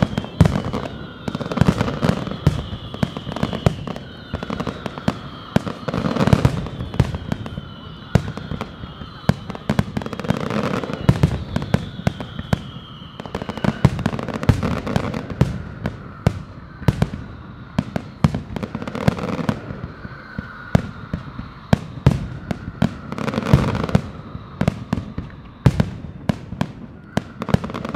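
Aerial fireworks display: a dense run of bangs and crackling as shells burst, with deeper booms swelling every few seconds. Through the first half, high whistles repeat, each falling slightly in pitch.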